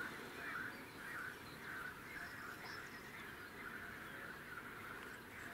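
Faint distant birds calling: a quick run of short repeated notes over a quiet outdoor background, fading out after about three seconds.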